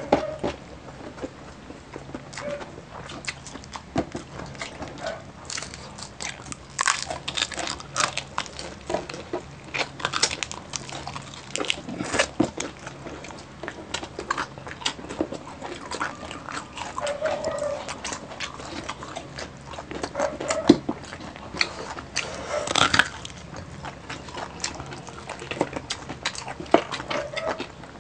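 Close-miked eating: irregular crunching and chewing of crispy deep-fried pork knuckle skin, with wet mouth and lip-smacking sounds.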